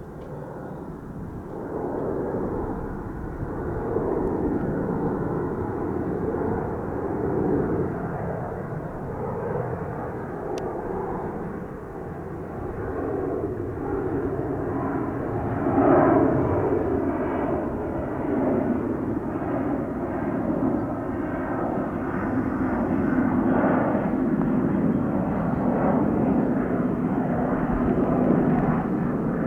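Boeing 737-500's CFM56 turbofan engines at takeoff power: a steady jet roar that grows louder over the first few seconds and stays loud.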